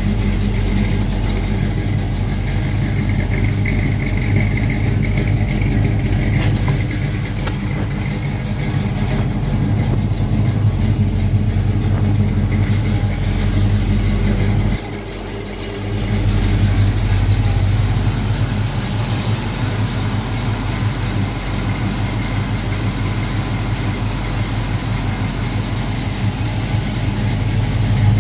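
Car engine idling steadily; the sound drops away briefly about halfway through, then picks up again.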